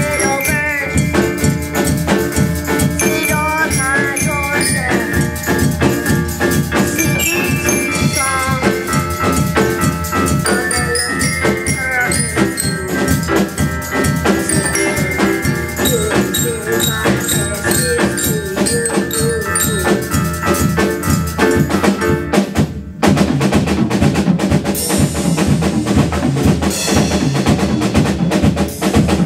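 Live percussion ensemble playing a song, with a pitched melody over drums and shakers. About 23 seconds in the music breaks off for a moment, then comes back in with denser, louder drumming.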